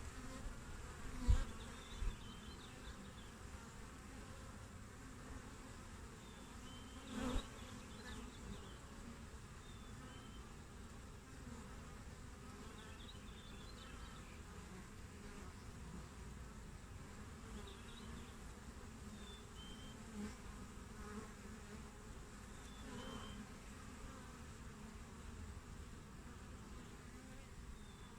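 Western honey bees buzzing at the hive entrance: a faint, steady hum, with two brief louder swells about a second in and about seven seconds in.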